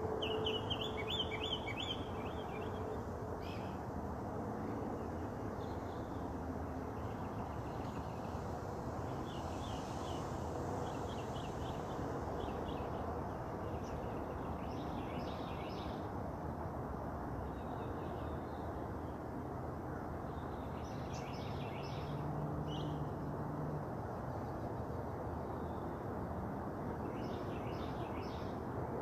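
Songbirds chirping in short series of quick high notes, repeated every few seconds, over a steady outdoor background hiss.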